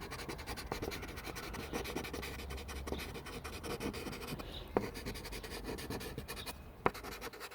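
Charcoal stick scratching across paper in quick, dense strokes, with two sharper taps, one a little past the middle and one near the end.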